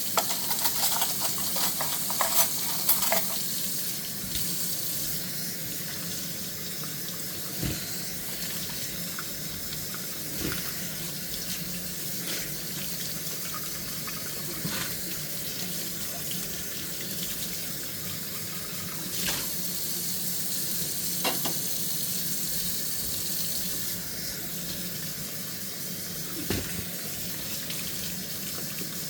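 Kitchen tap running steadily into a sink during handwashing of dishes, with a cluster of clinks and knocks of dishes in the first few seconds and a few single knocks later on.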